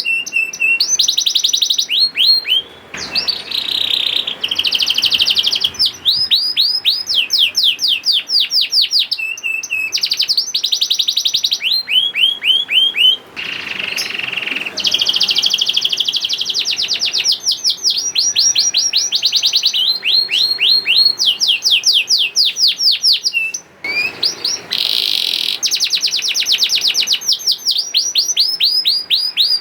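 Domestic canary singing a long, continuous song made of fast trills, each a rapid run of repeated falling notes. The bird switches from one trill to the next every second or two, with a few brief pauses.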